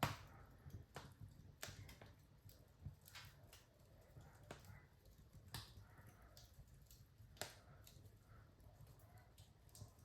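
Fire in a fireplace crackling: quiet, irregular sharp pops and snaps over a low steady rumble, with the loudest pop at the very start.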